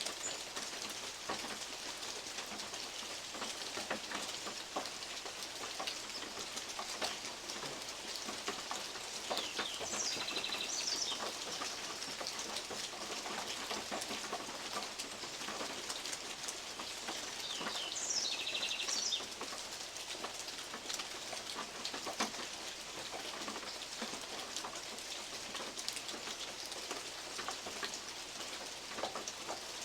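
Steady rain in woodland, with big drops from oak leaves tapping on a metal roof as many scattered sharp ticks. A bird calls twice, about a third and two thirds of the way through.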